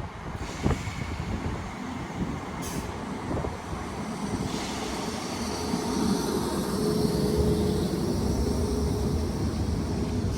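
Class 319 electric multiple unit pulling into the station, a low rumble. A steady tone comes in about four seconds in, and the sound grows louder after that.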